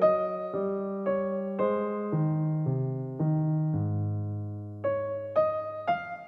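Background music on an electric piano: a slow melody of struck notes that change about every half second and fade, with a longer low chord held for about a second midway.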